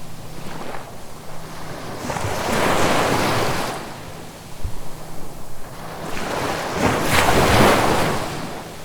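Sea waves washing in, one surge of surf building about two seconds in and a louder one about seven seconds in.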